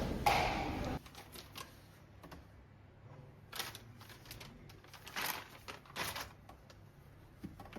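Scattered light clicks, taps and a few brief rustles of small objects being handled, after a louder noise cuts off about a second in.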